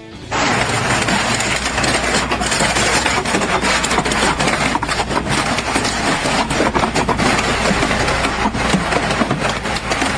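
Loud engine running, with a steady low hum under dense clattering and rattling, cutting in suddenly just after the start.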